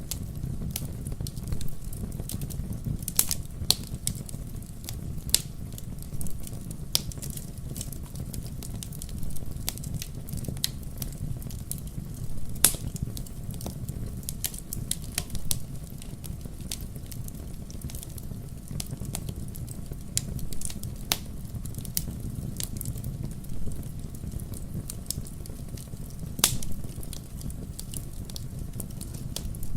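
Wood fire crackling in a fireplace: a steady low rumble of the flames with irregular sharp pops and snaps throughout.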